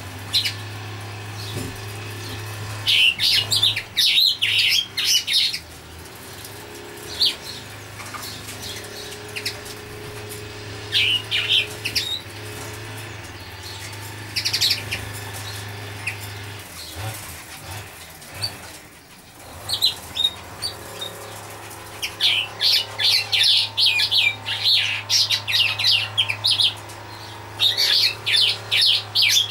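Small birds chirping in quick runs of short, high notes, coming in clusters, densest near the end, over a steady low hum.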